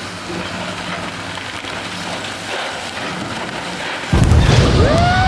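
Demolition machinery running steadily. About four seconds in, a large metal structure comes down with a loud crashing rumble and a metallic screech that rises in pitch and then holds.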